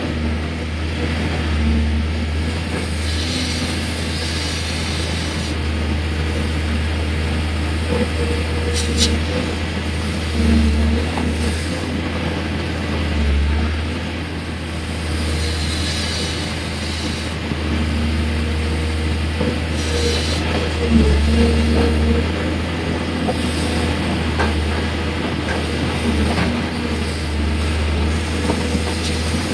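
Hydraulic excavator's diesel engine running as it digs, its note swelling and easing every few seconds under load.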